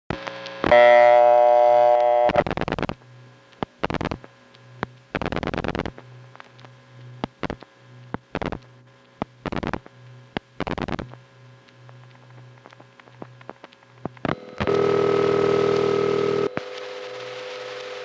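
Telephone line audio from a 1970s Bell System call in New York: a buzzy Bell System city dial tone for about a second and a half, then a series of short noisy bursts from the dialing and the switching equipment setting up the call. Near the end a loud tone sounds for about two seconds, then a steadier tone on the open line.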